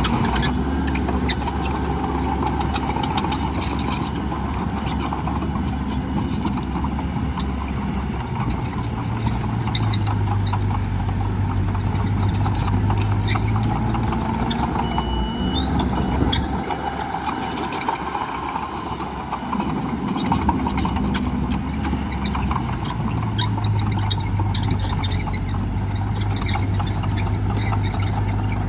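Heavy diesel engine of earthmoving equipment running under load, its pitch rising and falling as the machine works, with scattered clanks and knocks.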